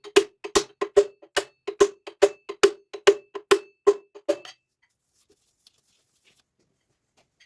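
Metal being struck in a steady series, about two and a half sharp strikes a second, each with a short ringing note; the strikes stop about four and a half seconds in.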